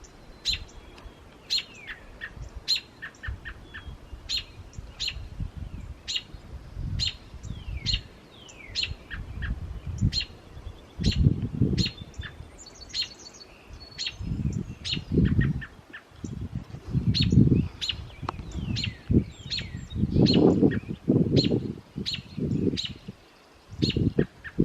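Small songbirds chirping repeatedly, with short high chirps and quick downward-sliding notes, over intermittent low rumbling swells.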